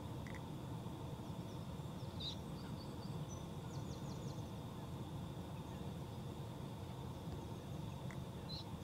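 Faint short high bird chirps, one at a time and once as a quick run of notes, over a steady low outdoor rumble.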